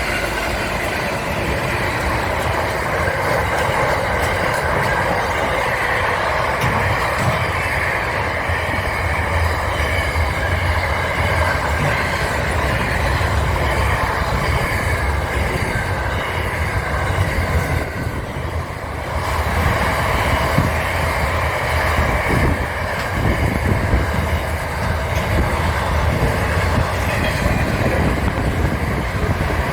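A train running on the rails, a steady loud rumble that dips briefly about two-thirds of the way through.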